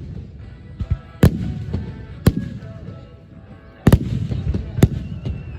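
Firework shells bursting overhead: five sharp bangs, one about a second in, one about two seconds in, a quick double near four seconds and one near five, each trailing off in a low rumble, over faint music.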